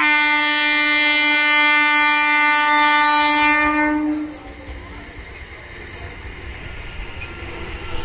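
ICF Medha electric multiple unit sounding one long horn blast of about four seconds at a steady pitch. After the horn cuts off, the rumble and clatter of its wheels on the rails grow steadily louder as the train approaches at speed.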